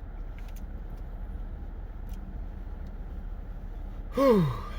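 A person's short voiced sigh near the end, the pitch falling steeply over about half a second. Before it there is only a low steady hum with a few faint clicks.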